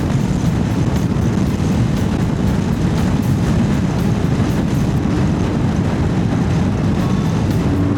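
Honda CB1100's air-cooled inline-four running steadily under way, heard together with a constant rush of riding noise.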